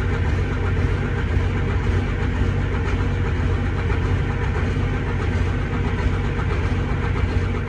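John Deere 9200 articulated tractor's diesel engine running at a steady speed: a constant low drone.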